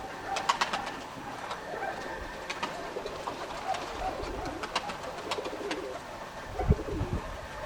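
Domestic pigeons cooing, with scattered sharp clicks. Near the end, gusts of wind buffet the microphone.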